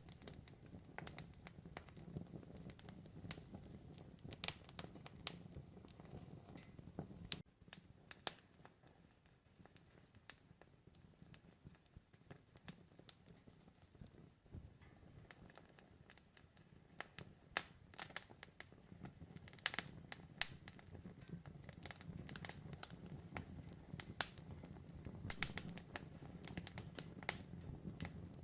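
Campfire burning, with irregular sharp crackles and pops from the wood over a low, steady rumble of the flames.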